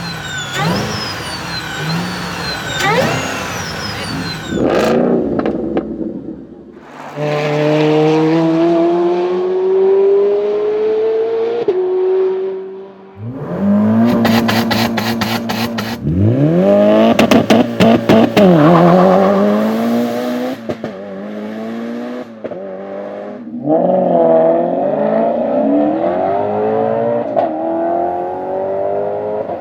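A string of different supercar engines: quick blips of the throttle at the start, then one car pulling hard with a steadily rising engine note and an upshift, then hard revs with sharp crackles and pops, then another engine revving near the end.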